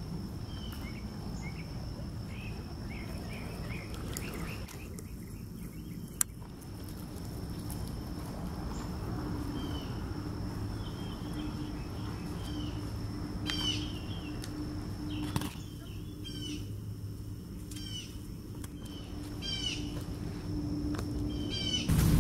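Birds chirping in short, repeated calls over a steady high whine and a low hum, with a single sharp click about six seconds in.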